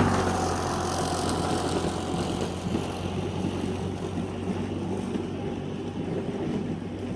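Neuton EM5.1 24-volt battery lawnmower's electric motor running and spinning the blade with a steady low hum, easing slightly over the first few seconds. The motor is running weak.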